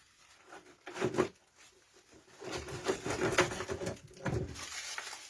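Irregular knocks and rubbing from tools and wood being handled on a workbench, with a cluster about a second in and a busier stretch in the middle.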